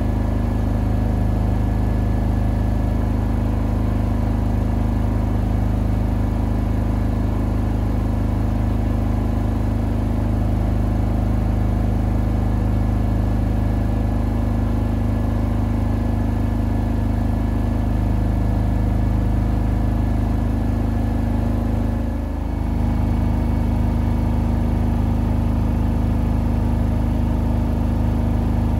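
Siemens iQ700 front-loading washing machine running with a steady motor hum. It dips briefly about three quarters of the way through, then carries on.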